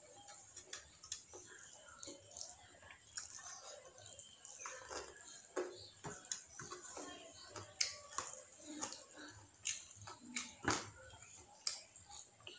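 Close-miked eating sounds: chewing with irregular sharp clicks and wet mouth smacks.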